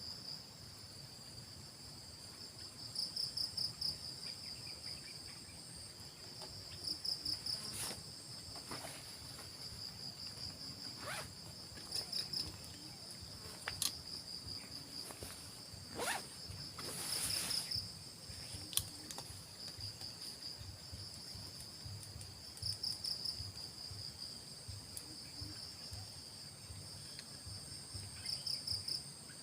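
Crickets or similar insects chirping, a high pulsing trill that swells into louder bursts every four to five seconds. A few faint clicks and a brief rustle come around the middle.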